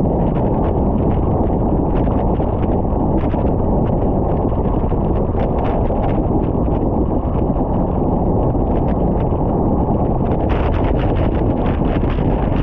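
Wind buffeting the microphone of a cyclist's camera while riding, a steady loud rush with many scattered sharp ticks through it.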